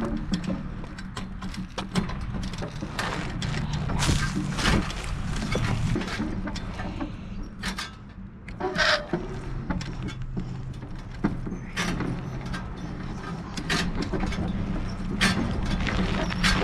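A bike being ridden over rough ground, heard from a camera mounted on the rider: a steady low rumble of wind and tyres with frequent rattles and knocks from the bike and camera mount.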